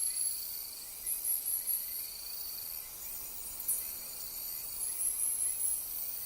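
Night insects chirping in repeated high-pitched trills, each about a second long, over a steady high drone, with one short sharp chirp about midway.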